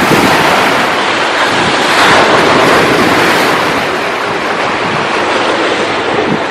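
Ocean surf washing onto the shore with wind buffeting the microphone. A wave swells about two seconds in, then eases off.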